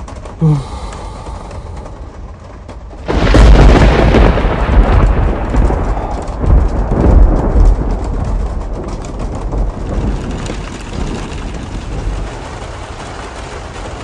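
A peal of thunder breaks about three seconds in and rolls on, deep and loud, slowly dying away over several seconds, over the steady patter of rain on the caravan.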